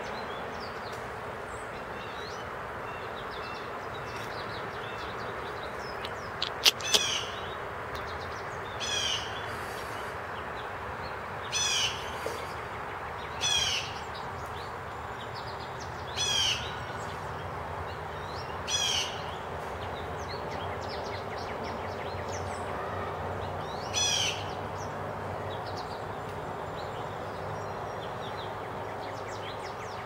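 A bird giving short, harsh, descending calls, seven of them a few seconds apart, over steady background noise. Two sharp clicks come just before the first call, about seven seconds in.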